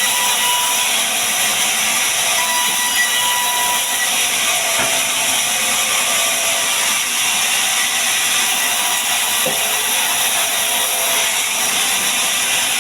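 A power tool working wood, running steadily without a break.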